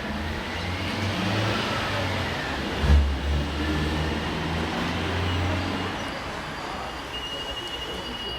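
Radio-controlled model construction machines running: electric motors and hydraulics whine, rising and falling in pitch, over a low hum. A single thump about three seconds in is the loudest sound, and a thin high tone starts near the end.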